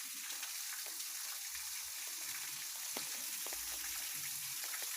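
Steady rain with scattered drops ticking close by, over the rush of running water from a small cascade.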